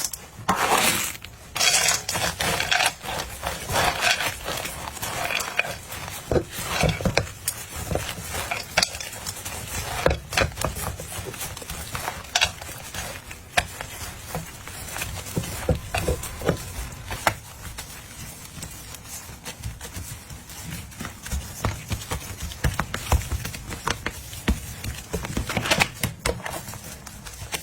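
Close-up fruit ASMR: an irregular run of crisp crunches, scrapes and clicks from fruit being handled, with no speech or music.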